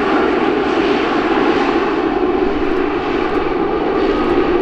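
Airliner engines running loud and steady, a dense rushing noise with a faint steady high tone on top.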